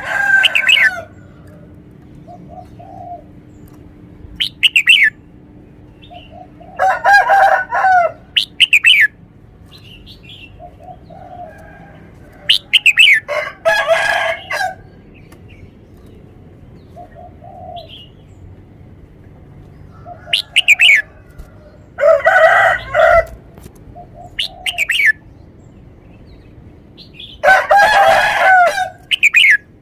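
Red-whiskered bulbul singing: loud phrases of one to two seconds come about every six seconds, with short down-slurred whistled notes between them.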